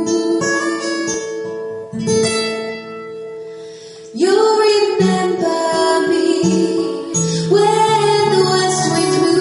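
Acoustic guitar picking and strumming a slow intro, fading a little, then about four seconds in a woman's voice comes in singing over it.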